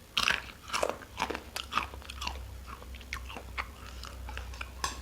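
Close-up eating sounds: a person biting and chewing food with mouth open, irregular crunchy clicks and wet smacks several times a second.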